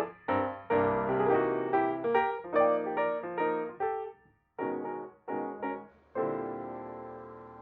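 Background piano music: a run of notes, a brief pause a little past halfway, three short chords, then a final chord left ringing and slowly fading.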